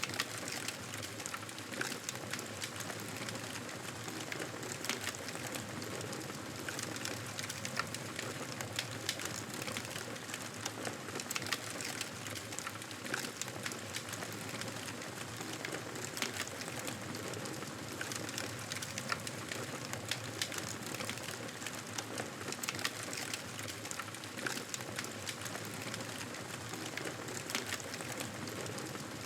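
Wood fire crackling in a fireplace: a steady hiss with many small, sharp pops and snaps scattered throughout.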